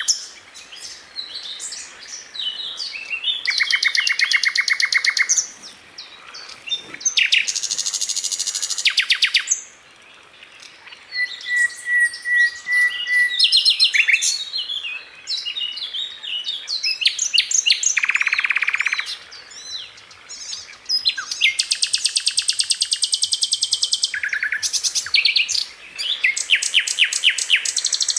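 Sikatan londo flycatcher singing: bursts of very rapid, tightly packed repeated notes lasting a couple of seconds each, alternating with varied sharp chirps and a short steady whistle about eleven seconds in.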